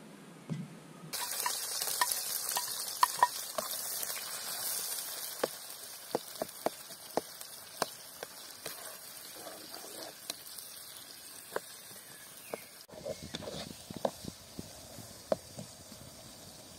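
Food sizzling in hot oil in a pot over a wood fire, stirred with a wooden slotted spatula that scrapes and knocks against the pot. The sizzle starts about a second in and is loudest at first, then eases.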